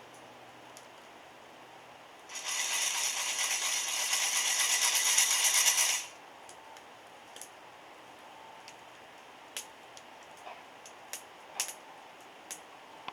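Coffee beans rattling inside a hand-held roaster shaken over a wood fire, a dense rattle lasting about three and a half seconds, followed by scattered sharp crackles.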